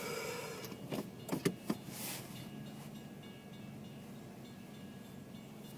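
Inside a car stopped at a railroad crossing: a few quick clicks and rattles about a second in, then a steady low hum from the car.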